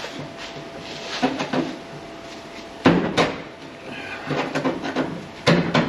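A rusted piece of the 1962 Chevy C10 cab's sheet metal being pried off, with metal scraping and creaking and several sharp clanks, the loudest about three seconds in and two more near the end.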